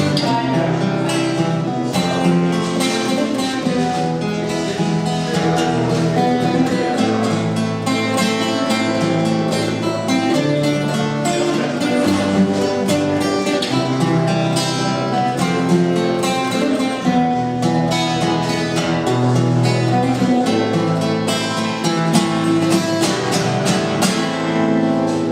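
Acoustic guitar playing an instrumental passage: a steady stream of plucked notes over sustained low bass notes, with no singing.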